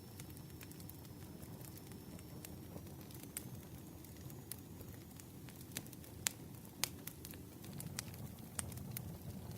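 Campfire burning: a steady low rush of flames with frequent sharp crackles and pops from the burning wood, the loudest pops a little past the middle.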